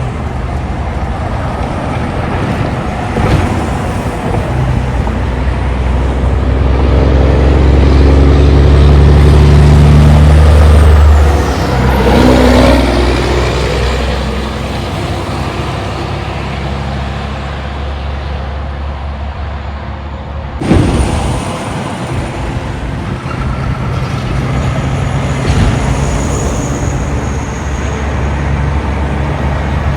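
Heavy diesel trucks driving past on a road, one engine swelling loud and passing about ten seconds in, then traffic running on. A brief sharp sound about two-thirds of the way through.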